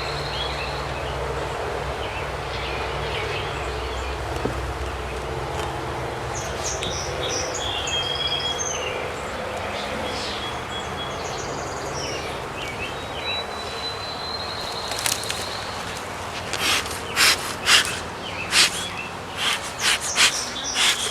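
Outdoor background noise with small birds chirping now and then, and a quick run of sharp clicks and knocks in the last five seconds.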